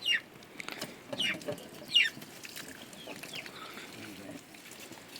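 Birds calling: a series of short, quickly falling chirps, three loud ones in the first two seconds and fainter ones after.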